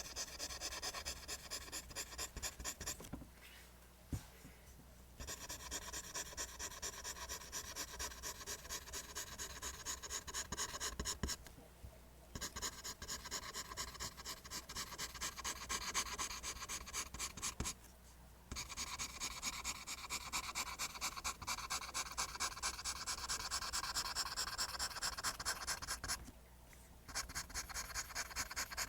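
Pencil scratching on paper in quick, repeated line strokes, several a second. It pauses briefly four times.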